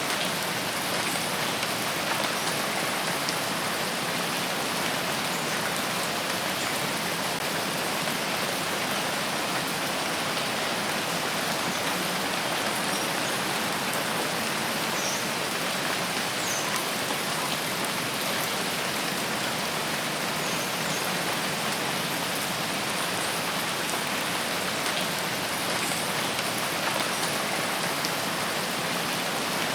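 Steady rain falling on forest foliage, an even hiss with faint scattered drips.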